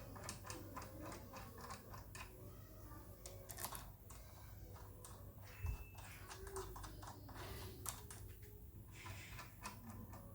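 Irregular light clicks and taps, coming unevenly throughout, over a faint low hum.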